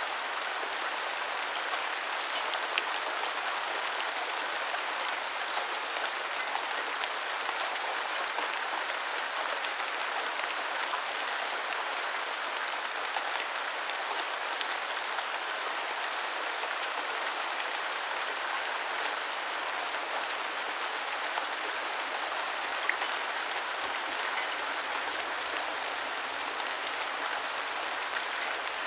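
Steady rain falling, an even hiss with scattered louder drop patters and ticks.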